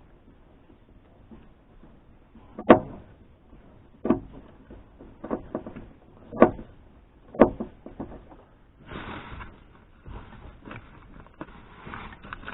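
Sharp knocks and clicks of plastic interior trim and clips being pried loose inside a small car, five louder knocks spread over several seconds, then a rustling scrape as the lining is pulled.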